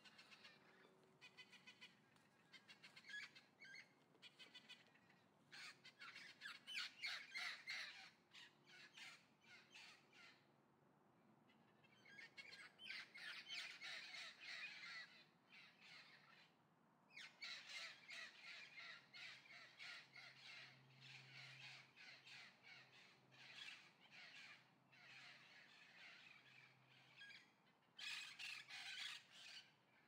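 Faint harsh bird calls in rapid runs, each lasting several seconds, broken by short pauses.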